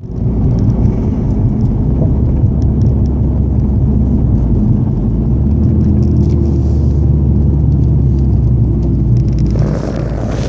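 Vauxhall Astra VXR turbocharged engine running with a steady low exhaust note through a Cobra cat-back exhaust, the car running without its dump valve. A brief high hiss about two-thirds of the way in and a rising rush of noise just before the end sit over the engine.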